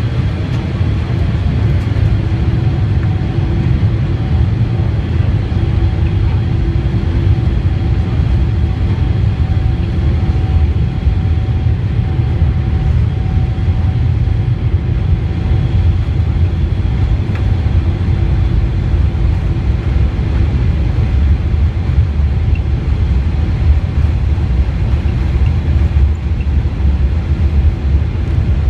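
Boeing 747-8 on its takeoff roll: its four GEnx engines at takeoff thrust and the wheels on the runway make a loud, steady low rumble, with a faint steady hum tone above it.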